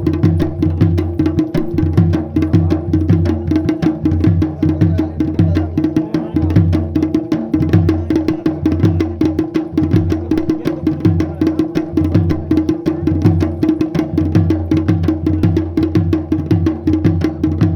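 Dhol and damau drums played in a fast, steady beat of rapid strikes over repeating deep drum tones, the traditional accompaniment of Pandav nritya dance.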